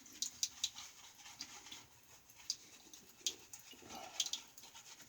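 Shaving brush working soft shaving-soap lather on the face, giving irregular soft wet crackles and squishy ticks.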